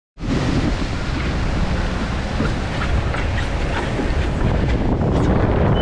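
Strong wind buffeting the microphone as a storm blows in over the water: a loud, steady, rough rumble that cuts in suddenly right at the start.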